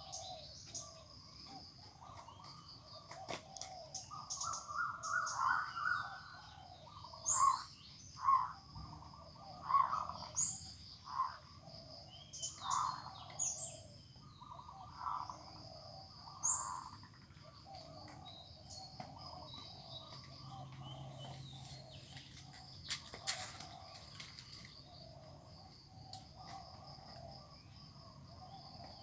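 Birds squabbling, with a run of loud, repeated calls between about four and seventeen seconds in, mixed with short, high chirps, then quieter calling to the end.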